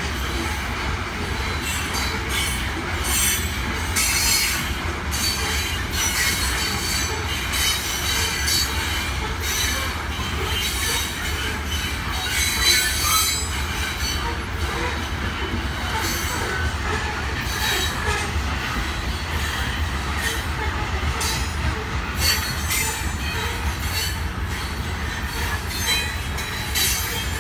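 Loaded coal hopper cars of a long freight train rolling past in a steady low rumble, with irregular high-pitched wheel squeals and clatter from the wheels on the rails.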